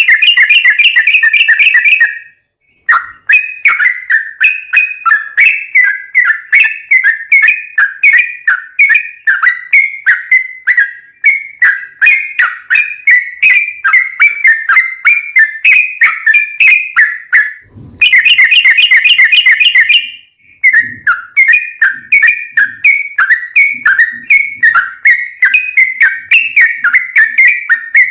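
Yellow-vented bulbul (trucukan) song: loud, rapid chattering phrases of bright chirps about three a second, broken by fast continuous trills (the long 'ropel' run) at the start and again about 18 seconds in.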